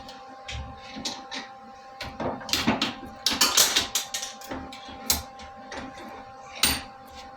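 Irregular knocks and clatter of metal parts being handled and set in place during welding and fabrication work, with a denser run of rasping scrapes a few seconds in. A faint steady hum runs underneath.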